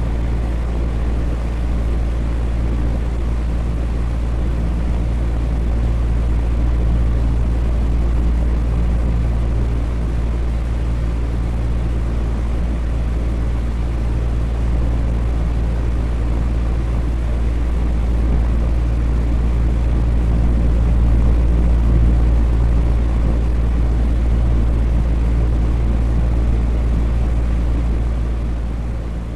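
Electric fan running steadily: an even whir with a deep low hum underneath.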